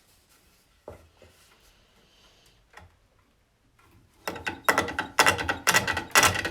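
A hook tool cutting into a wooden workpiece spinning on a pole lathe, in loud rhythmic cutting strokes about two a second. The strokes start after about four seconds of near quiet broken by a couple of light clicks.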